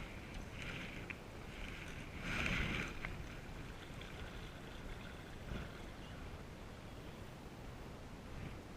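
Canoe paddles dipping and pulling through water: a few short splashy strokes in the first three seconds, the loudest about two and a half seconds in, then a faint steady hiss with one soft knock.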